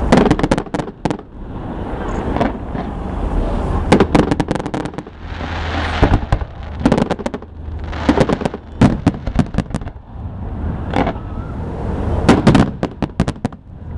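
Aerial fireworks display: shells bursting in quick clusters of sharp bangs and crackles, with a new cluster every second or two.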